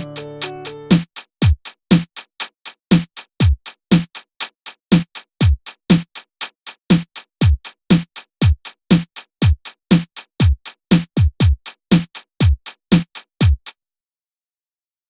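Electronic drum-machine beat from Orb Composer playback: after the other instruments drop out about a second in, the kick drum, falling in pitch, and sharp hits about four a second play alone. The beat cuts off suddenly near the end.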